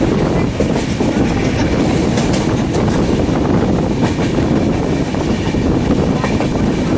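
Passenger train running along the track: a steady, loud rumble and rattle of the coaches and wheels, with scattered faint clicks.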